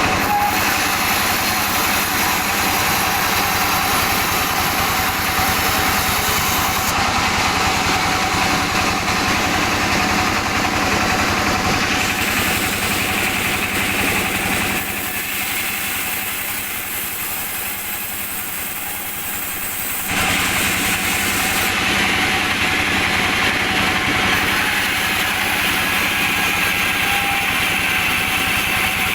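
Sawmill machinery running steadily: the saw and its driving engine, with a constant mechanical hum. The sound drops to a quieter, thinner stretch for about five seconds past the middle, then returns to full level.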